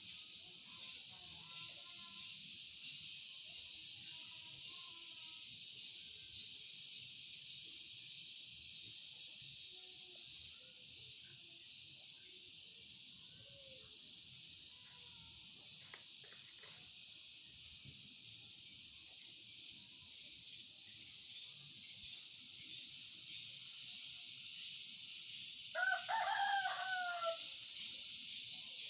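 A rooster crows once, about 26 seconds in, over a steady high hiss and scattered faint bird chirps.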